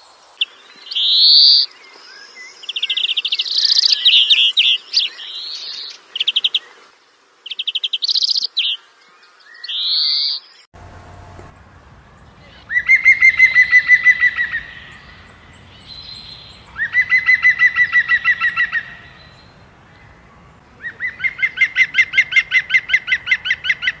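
Birds singing: short, loud whistled phrases for about the first eleven seconds, then, after a sudden switch in the background, a different bird giving three trills of rapid repeated notes, each lasting about two seconds.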